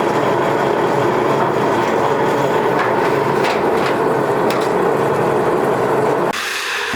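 Loud, steady factory machinery noise with a few faint knocks, which stops abruptly near the end as a different, quieter sound takes over.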